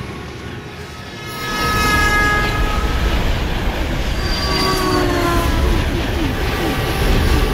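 A train passing with a low rumble that swells about a second and a half in. Its horn sounds twice, each long blast sliding down in pitch as the train goes by.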